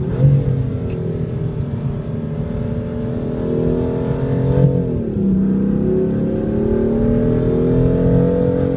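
BMW M3/M4's twin-turbo straight-six accelerating on track, heard from inside the cabin: the engine note climbs steadily, drops sharply at a gear change up about five seconds in, then climbs again.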